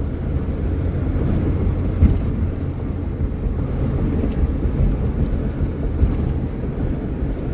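Inside a vehicle's cab while driving through a blizzard in strong wind: a steady low rumble of engine and road, with a few dull knocks.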